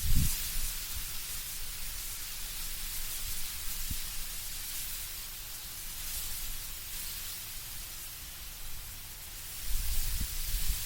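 Wind blowing through trees, the leaves rustling in a steady hiss. Low rumbling gusts swell briefly right at the start and again near the end.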